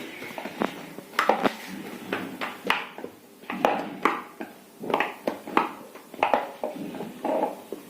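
Dough being worked by hand with herbs mixed in: irregular knocks, slaps and short scrapes against the bowl or worktop, about once or twice a second.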